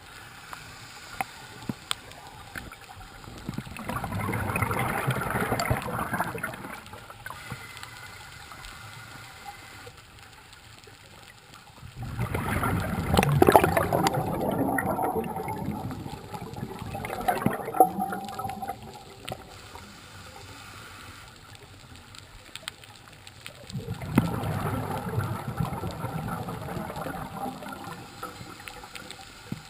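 Scuba diver's exhaled bubbles gurgling out of the regulator, heard underwater: three bubbly bursts, each a few seconds long, about every ten seconds, with quieter breathing between.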